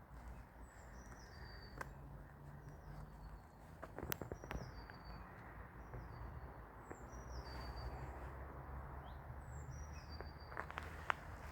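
A songbird singing a short, high phrase that steps downward in pitch, repeated about every three seconds, over a low background rumble. There are a few soft footsteps here and there.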